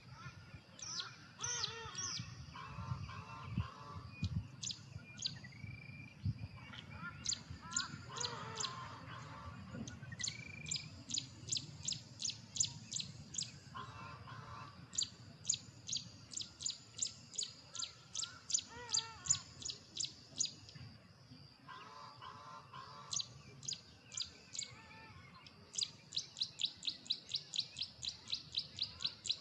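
Male Carolina wren singing: runs of fast, ringing repeated notes, several a second, broken by short pauses and quickening near the end. Fainter, lower warbling calls sound in some of the gaps.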